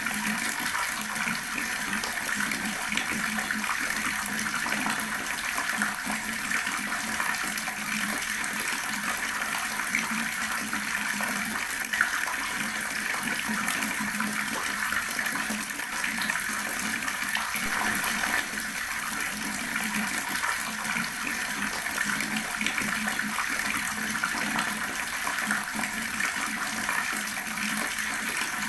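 Water running steadily from an outdoor tap and splashing below, with small irregular splashes through the flow.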